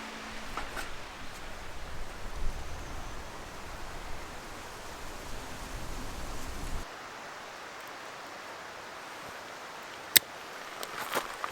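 Outdoor ambience: a steady hiss with a low rumble that changes abruptly about two-thirds in to a quieter, even hiss. A single sharp snap comes about ten seconds in, then a few small clicks near the end.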